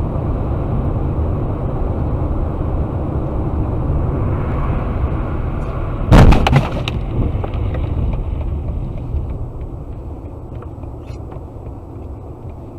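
Steady low road and engine rumble of a moving car, broken about six seconds in by one sudden, very loud bang with a short clatter of cracks, the impact of a collision; the rumble eases off afterwards.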